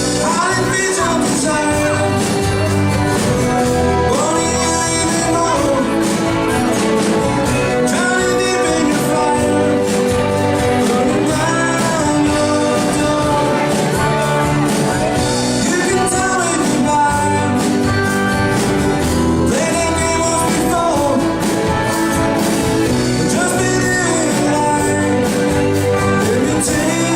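Live band playing a song with a lead singer, amplified music at a steady level.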